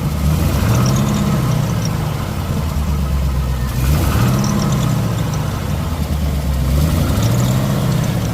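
Twin-turbo LS V8 engine in a BMW E36 running at idle, its pitch rising and falling back three times as the revs swing up and settle.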